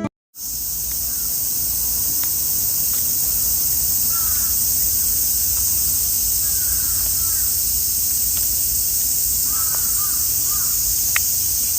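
Loud, steady chorus of cicadas, a high-pitched drone. A crow caws a few times, around a third of the way in, in the middle and near the end.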